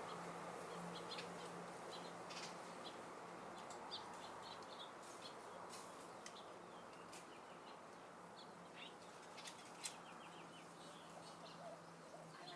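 Faint outdoor wind with small birds chirping: short high chirps scattered throughout, some in quick little runs, over a steady low hum.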